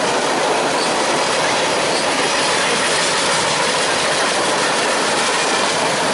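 A train's cars rolling past close by: a loud, steady rush of wheels on the rails with no let-up.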